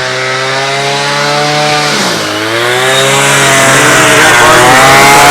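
Small engine of a Southland wheeled string trimmer running steadily under load, getting louder. Its pitch dips about two seconds in and then recovers.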